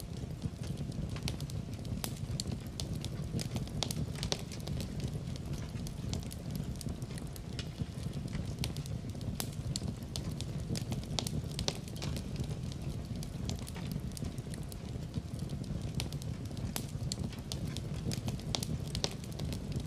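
Wood fire crackling in a fireplace: frequent irregular sharp pops and snaps over a steady low rush of the flames.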